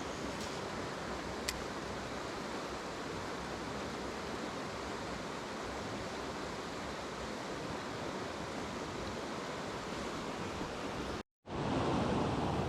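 Mountain stream rushing over rocks, a steady water noise. It cuts out for a moment about eleven seconds in and comes back louder.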